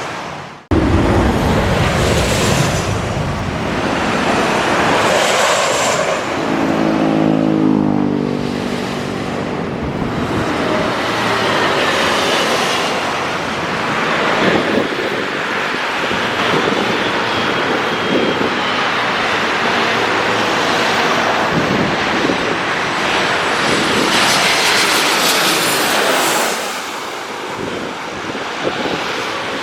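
Airliner flying low overhead on final approach to land, its engine noise loud and steady, with engine tones that fall in pitch as it passes, over road traffic.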